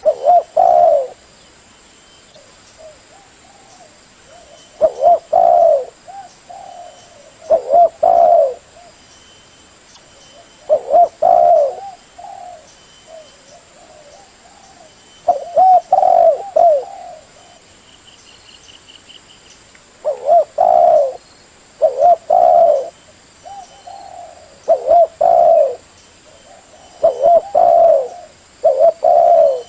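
Spotted dove cooing: about ten short, repeated cooing phrases, each about a second long and a few seconds apart. This is the call used as a lure to attract spotted doves.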